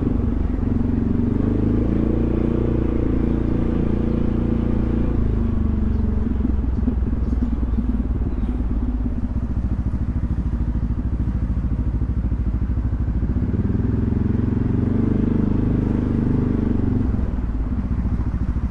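Yamaha XMAX 300 scooter's single-cylinder engine running under way, its pitch rising and holding twice and then easing back again.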